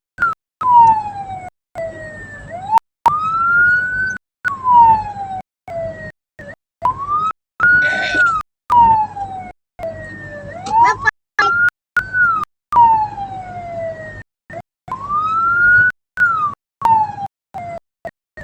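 Vehicle siren wailing, its pitch slowly rising and falling about every four seconds. The sound keeps cutting out for split seconds.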